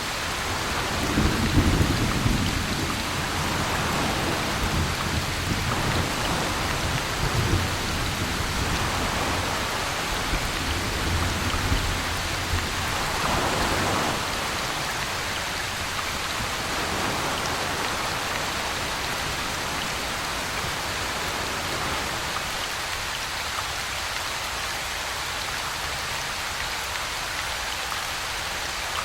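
Steady rain, with low thunder rumbling through roughly the first half before it dies away, leaving the rain alone.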